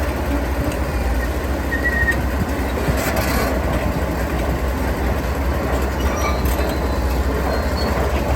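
Heavy diesel construction machinery running steadily with a deep low rumble, and a few faint, short metallic squeaks over it.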